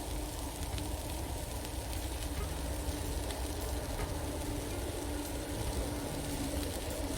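Cabbage and seafood frying in oil in a pan: a steady sizzle, with a steady low rumble underneath.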